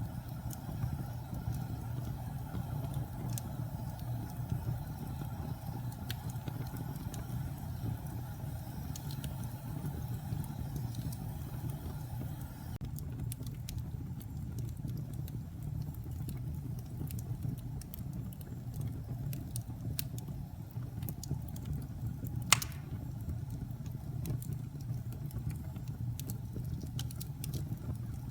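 Wood fire burning in a fireplace: a steady low rumble with scattered sharp crackles and snaps, and one much louder pop late on.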